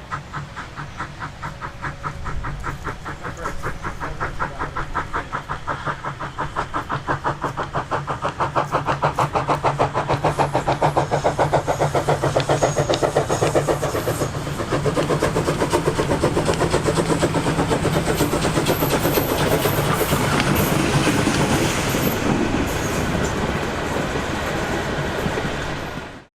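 Small NS steam tank locomotive working under steam, its exhaust beats quickening and growing louder over the first dozen seconds, then running on as a fast steady beat with hiss. It cuts off suddenly near the end.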